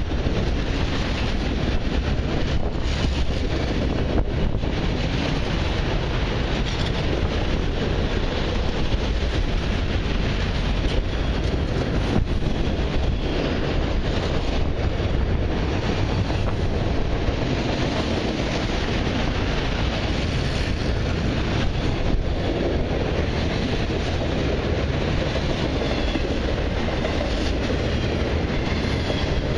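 Autorack and mixed freight cars of a long freight train rolling past, a steady, even rumble of steel wheels on the rails.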